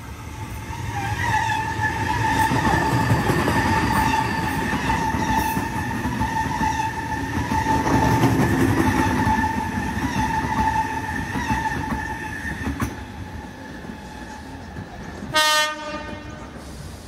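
Double-deck electric passenger train passing close by, rumbling over the rails with a steady high whine. Near the end comes one short horn blast.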